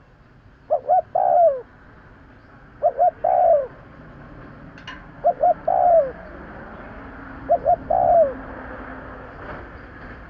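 Spotted dove cooing its song four times, each phrase two short coos followed by a longer, falling coo, repeated every two seconds or so.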